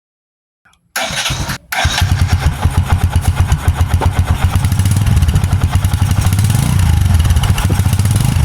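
Kawasaki Bajaj CT125 motorcycle's single-cylinder engine starting about a second in, cutting out for a moment, then running with an even pulsing beat.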